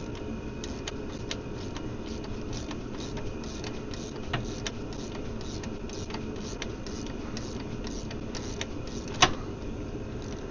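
Steady rain with scattered drips tapping irregularly, and one louder sharp click about nine seconds in.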